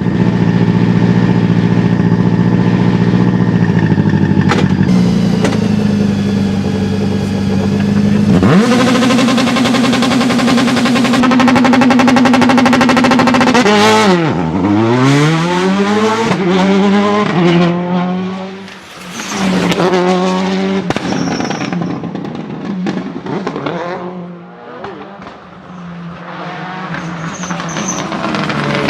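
Citroën Xsara WRC rally car's turbocharged four-cylinder engine held at steady high revs, jumping higher about eight seconds in and holding there. Around fourteen seconds in the revs drop sharply and climb again in steps, as in a launch and upshifts, with anti-lag pops and crackles from the exhaust throughout.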